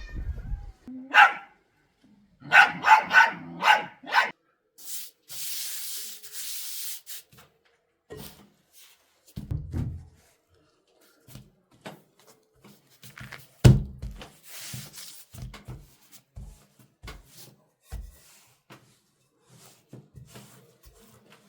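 A dog barking, once about a second in and then four times in quick succession. A few seconds of hiss follow, then scattered knocks and clicks, one sharp knock louder than the rest.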